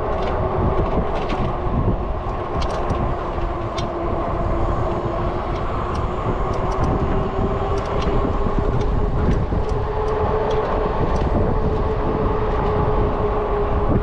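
Zota Zephyr e-bike's electric motor whining steadily under way, over a rumble of tyres and wind on the microphone, with scattered light clicks and rattles from the bike.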